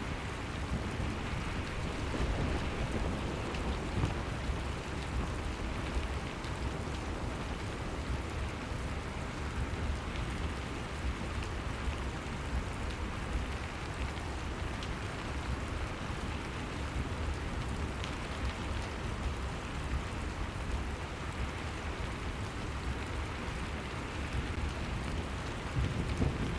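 Steady rain falling: a dense, even hiss of raindrops with occasional single drops standing out and a steady low rumble underneath.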